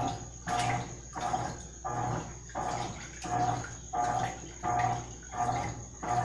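Mabe Multiprática washing machine agitating a small load in water: each stroke of the agitator brings a hum and a swish of sloshing water, about one and a half strokes a second as the agitator turns back and forth.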